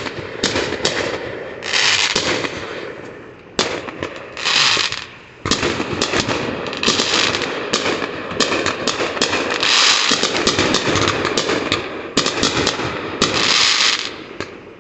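Aerial fireworks going off in rapid succession: many sharp bangs, with repeated bursts of dense crackling that each last about a second.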